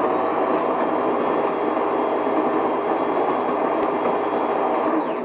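De'Longhi ESAM1000SJ espresso machine's built-in coffee grinder grinding beans: a loud, steady grinding noise with a high motor whine that spins up at the start and winds down as it cuts off about five seconds in.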